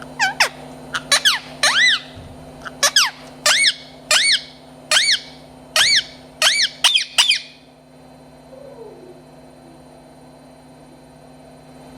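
Pet parrot calling: a rapid run of about fifteen short, loud, shrill calls, each arching up and then down in pitch, stopping about seven and a half seconds in.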